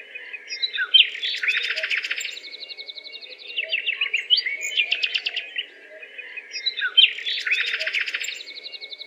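Birds chirping and trilling in a busy chorus of quick, high calls, with the same run of phrases coming back about every six seconds, over a faint steady low hum.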